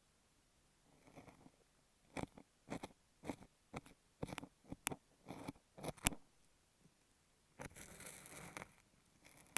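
An ear pick working kinetic sand against an earphone microphone, making crisp crunching, crackling strokes right at the mic. A quick run of about a dozen short strokes is followed by one longer rustling scrape.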